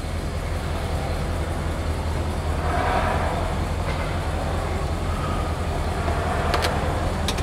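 1971 Cadillac Eldorado convertible's power top being raised by its motor, over the steady hum of the idling 500 cubic-inch V8. A couple of sharp clicks come near the end.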